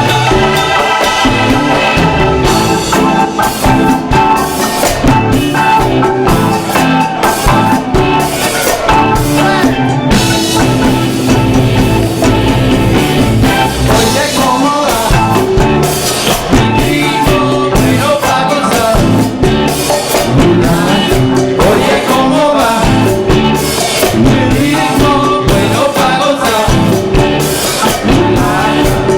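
A live rock band playing: Hammond organ with drum kit, loud and continuous.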